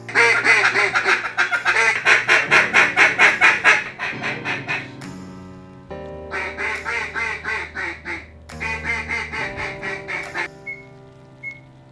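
Rapid runs of mallard-style duck quacking, about four quacks a second: a loud run over the first four seconds and a softer one from about six seconds in, over background music.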